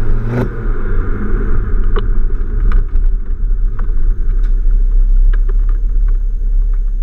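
Ford Focus ST's turbocharged five-cylinder engine through a decatted, non-resonated Milltek exhaust. It settles from a rev with a sharp bang about half a second in, then idles with a steady deep drone and scattered pops and crackles.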